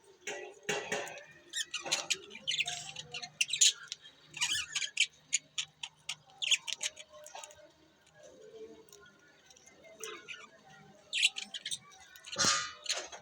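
Budgies chirping and chattering in quick runs of short, high chirps, with a lull past the middle and a louder burst of chirps near the end.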